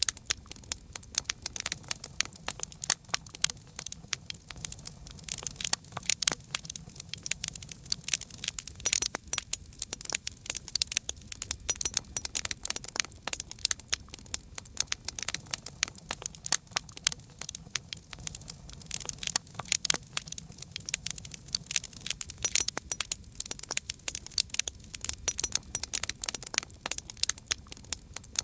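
Wood fire crackling: many irregular sharp pops and snaps over a faint low rumble of burning.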